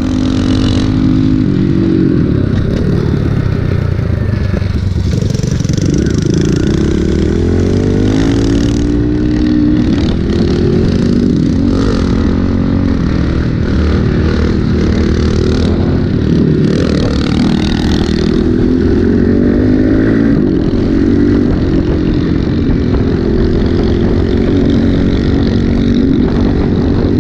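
Small single-cylinder four-stroke pit bike engine, a Kawasaki KLX110, being ridden hard: the engine pitch climbs and drops again and again as the rider revs up and shifts or backs off the throttle.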